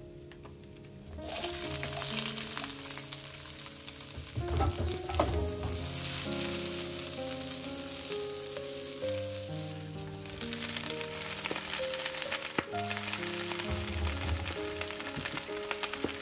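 Sliced shallots, garlic and chillies sizzling in hot oil in a wok as they are stirred with a spatula. The sizzle starts sharply about a second in.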